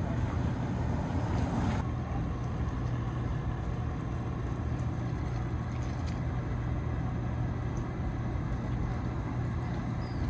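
A motor yacht's engines running with a steady low hum under a broad rushing noise; the rushing eases a little about two seconds in.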